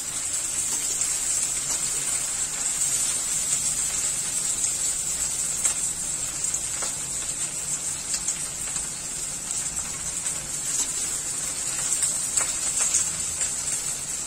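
Okra and onion pieces sizzling in hot mustard oil in a kadhai over a high gas flame: a steady high hiss with a few faint crackles.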